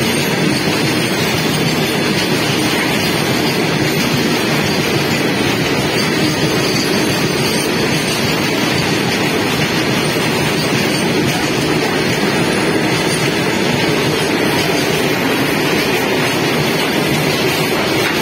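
Long freight train of open-top wagons running past close by: the loud, steady noise of steel wheels rolling on the rails, with no individual knocks standing out.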